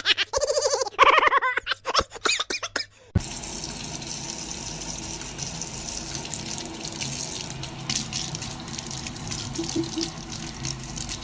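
Short, choppy pitched calls or voice for about three seconds, then an abrupt change to a steady hiss of running water, like a tap running into a sink.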